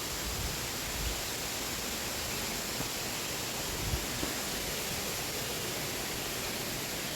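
Waterfall, a steady rush of falling water, with a couple of soft low thumps about a second and four seconds in.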